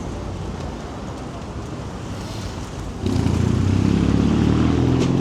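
Street traffic rumbling, then about three seconds in a vehicle engine close by sets up a louder, steady low drone.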